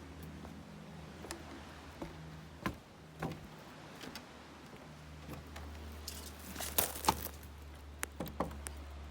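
Light clicks and knocks of objects being handled, with a louder clatter about seven seconds in, over a low steady rumble.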